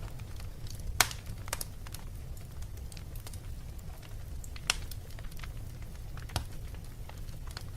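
Wood fire crackling in a fireplace: a steady low rumble of the flames with scattered sharp pops and snaps, the loudest pop about a second in.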